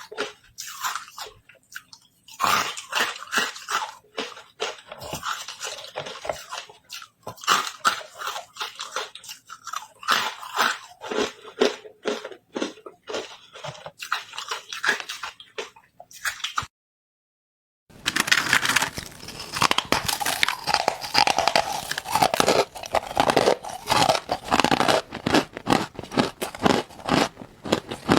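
Close-miked biting and chewing of hard carbonated ice: rapid, irregular crunches and crackles. The sound drops out for about a second two-thirds of the way through, then the crunching resumes, denser than before.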